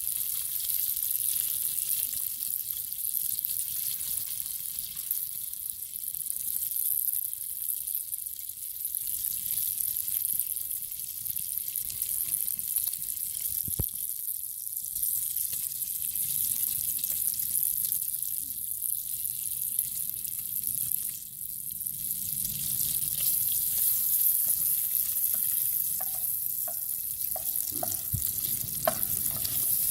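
Food sizzling steadily in a hot pan over a campfire. There is a single knock about halfway through and a few short clinks of a utensil near the end.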